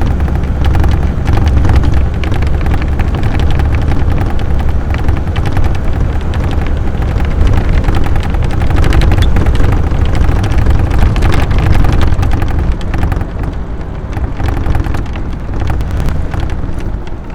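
AC Buckland's 2-litre straight-six engine heard from inside the car on the road: a loud, steady low drone with constant fine rattling from the bodywork and scuttle. It eases off somewhat about 13 seconds in.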